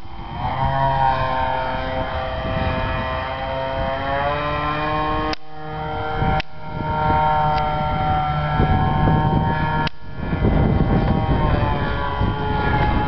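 RC model airplane's motor and propeller whining, its pitch sliding down and up as the throttle is worked on a landing approach, over heavy wind rumble on the microphone. A few sharp clicks and brief dropouts cut through about five and ten seconds in.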